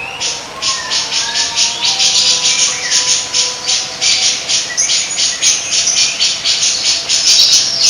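A songbird giving a rapid, continuous run of harsh, rasping chatter notes, about four a second, with a few faint whistled notes beneath.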